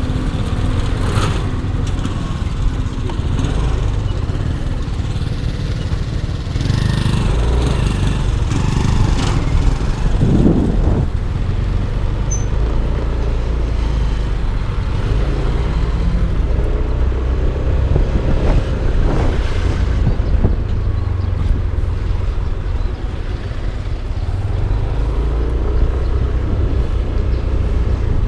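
Yamaha Aerox 155 scooter riding in traffic, its single-cylinder engine running under a steady low rumble. Other vehicles swell past a few times, most around the middle and again about two-thirds through.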